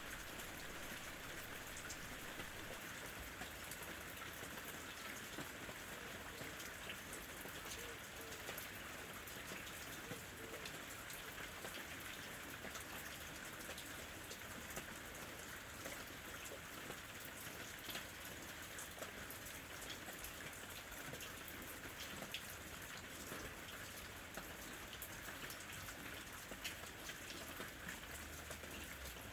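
Steady ambient rain: a soft, even patter of raindrops falling on a surface.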